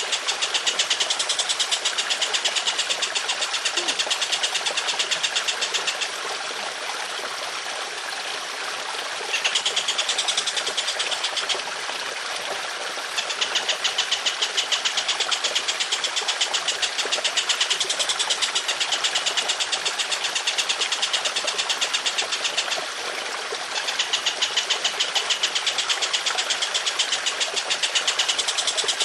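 A songbird's rapid, rough repeated call, a long fast volley of harsh notes, over trickling water. The call breaks off three times, about six seconds in for three seconds, near twelve seconds for about a second and a half, and near twenty-three seconds for about a second, leaving only the water.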